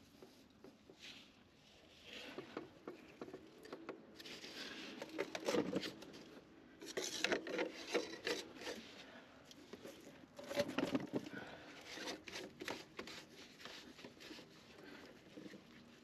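Irregular rubbing and scraping with many scattered clicks and knocks, busiest in three spells through the middle.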